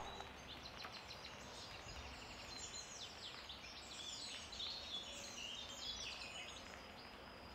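Birds chirping and singing faintly in quick, high, overlapping calls over a low background hiss.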